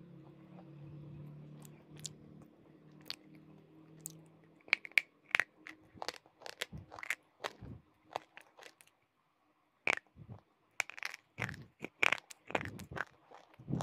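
Close-miked chewing of hard, chalky pieces: sharp, irregular crunches starting a few seconds in, with a brief pause in the middle. A low hum comes before the crunching.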